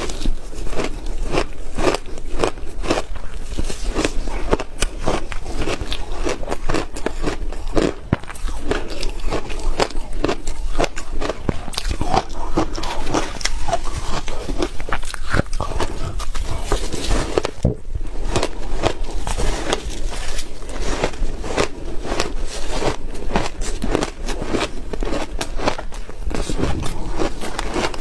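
Ice being bitten and chewed close to the microphone: a dense, continuous run of sharp crunches and crackles as the pieces break between the teeth.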